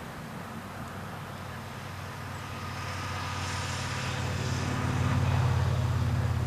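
Diesel freight locomotives approaching, the low drone of their engines growing steadily louder through the second half.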